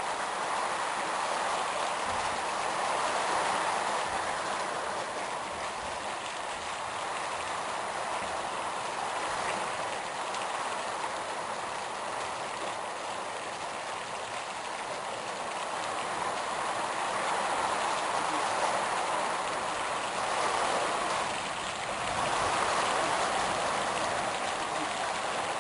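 Heavy rain falling in a steady rush of noise, swelling and easing in waves.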